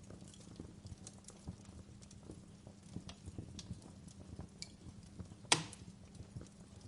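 Wood fire in a fireplace crackling: irregular small pops and ticks over a faint low rustle, with one sharp, loud pop about five and a half seconds in.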